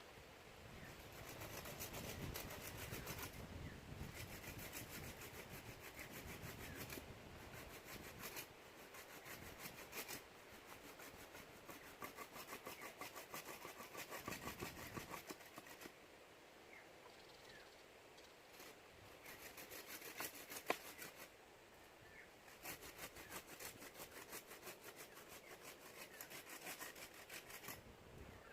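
A hand tool working wood with rapid, rhythmic strokes, in several bouts of a few seconds with short pauses between them.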